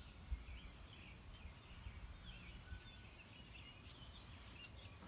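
Near silence with faint bird chirps in the background and a single soft bump just after the start.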